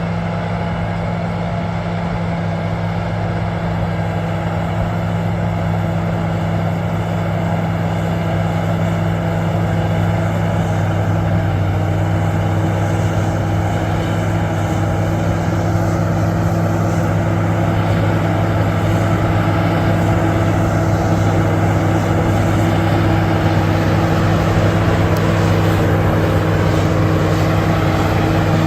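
Bulldozer's diesel engine running steadily under working load, a deep even drone that grows slightly louder over the stretch.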